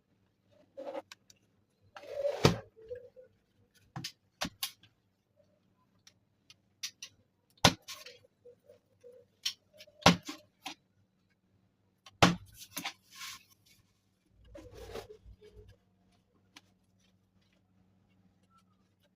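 A series of sharp knocks and clicks, about half a dozen spread irregularly, with rustling and handling noise between them, as of objects being handled and set down.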